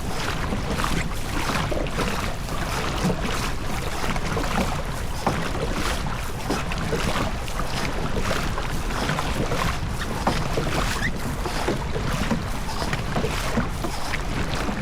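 Boat underway: a constant low rumble with wind on the microphone and frequent short splashes of water against the hull.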